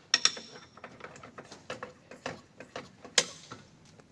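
Irregular sharp clicks and knocks, a quick pair just after the start and a single loud one about three seconds in, with fainter ticks between: hands working with tools and parts.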